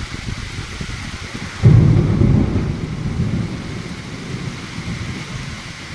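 A loud thunderclap breaks about one and a half seconds in, a deep rumble that fades over the next few seconds. Steady rain and wind continue underneath.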